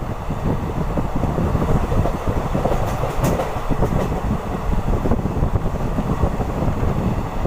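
Deccan Queen Express passenger train running on the track, heard from aboard: a steady low rumble of the coach and wheels, with a few sharper clicks about three to four seconds in.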